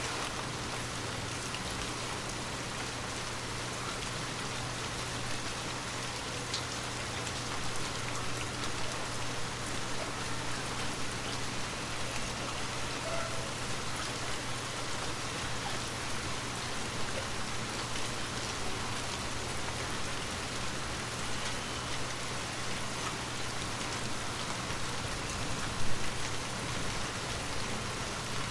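Steady rain falling on a window, an even hiss with scattered drops tapping, and one brief louder knock near the end.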